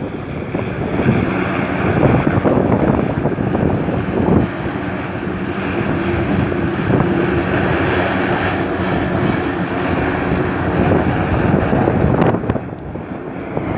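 Airliner engines running loudly and steadily, a dense rush with a few faint steady tones in it, with wind buffeting the microphone. The sound drops for a moment near the end.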